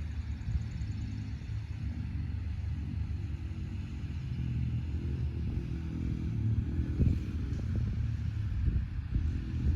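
Yamaha TT-R125L dirt bike's single-cylinder four-stroke engine running with a steady low rumble, with a few brief knocks about two-thirds of the way through.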